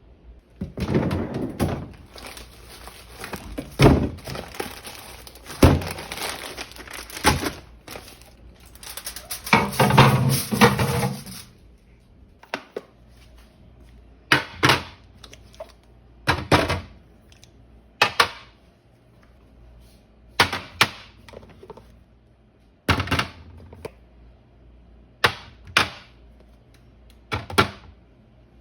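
Food containers and items being handled and set down in a refrigerator: a busy stretch of clattering for about the first eleven seconds, then single sharp knocks roughly every two seconds.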